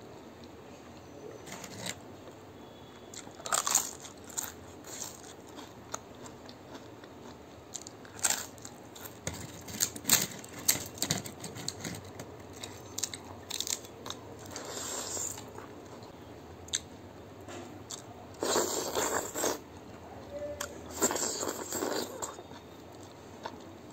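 A person eating rice with leafy greens by hand: chewing and crunching, with scattered sharp clicks and several louder wet bursts lasting about a second each.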